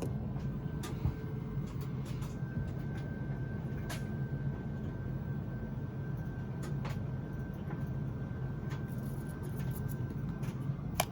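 Tumble dryer running with a steady low hum, with a few light clicks and knocks over it.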